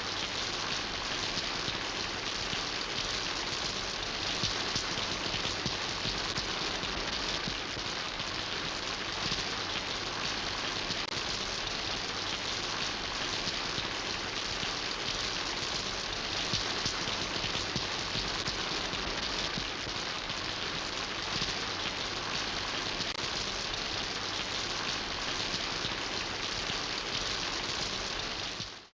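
Steady rain falling, an even hiss with a fine patter of drops. It cuts out abruptly at the very end.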